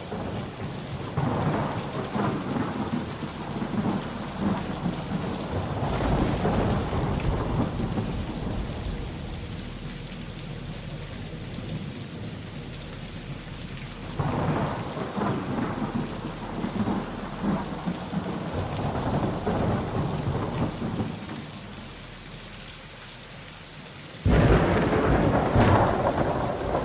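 Thunderstorm: steady rain with long rolls of thunder, one swelling about a second in and another around fourteen seconds. Near the end a sudden loud thunderclap breaks in.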